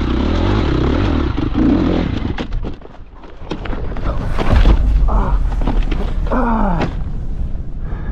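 KTM 350 SX-F single-cylinder four-stroke dirt bike engine running, then cutting out amid a burst of clattering about two and a half seconds in, followed by a heavy thump about four and a half seconds in and further knocks and scraping: the sound of the bike crashing.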